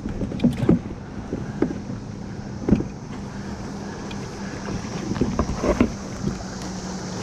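Kayak on the water: a few knocks of a paddle or gear against the hull, about a second or two apart, over water sloshing and wind on the microphone, with a steady low hum.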